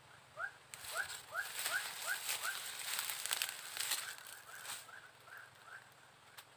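A bird repeating a short rising chirp, two or three times a second, over a dense crackling and clicking noise that starts about a second in and stops near the five-second mark.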